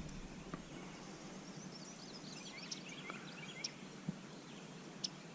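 Faint outdoor ambience with small birds chirping and twittering in quick short notes, busiest in the middle, and a few soft clicks.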